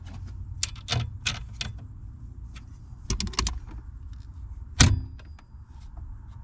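Hand tools and metal parts clinking and clicking during work on a car's steering column: scattered sharp clicks, a quick cluster of clicks about three seconds in, and one louder knock near five seconds.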